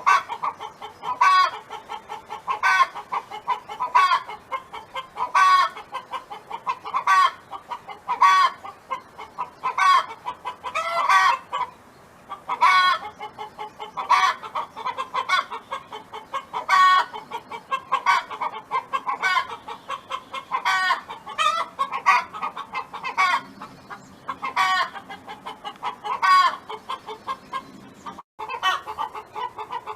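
Domestic hen clucking and cackling in a steady rhythm: a loud call about every second and a half, with softer clucks between, the hen song a laying hen makes.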